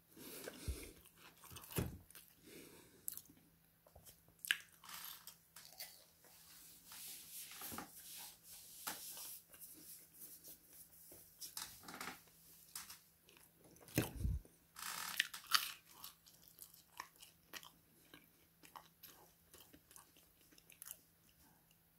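A person chewing food close to the microphone, with many short, irregular crunches and bites.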